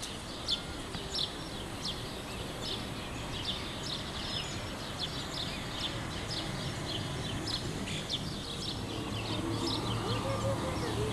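Small birds chirping: a quick run of short, high chirps, several a second, over steady background noise. A voice-like sound comes in near the end.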